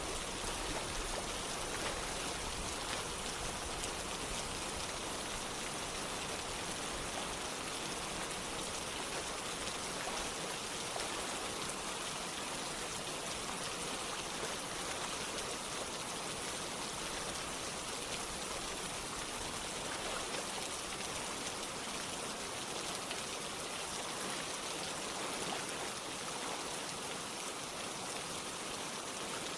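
Steady rain falling, mixed with running water, an even hiss with no let-up.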